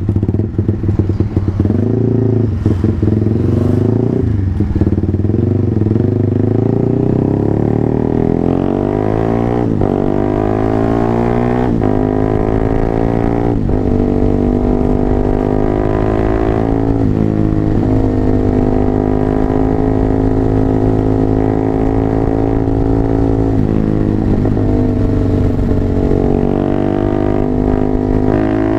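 Honda CBR150R single-cylinder engine, bored up to 180cc, running through a 3Tech EvoX X1GPR racing exhaust. It gives a couple of short throttle blips, then accelerates through the gears: the pitch climbs and drops at each of four upshifts. After that it runs at a steady cruise.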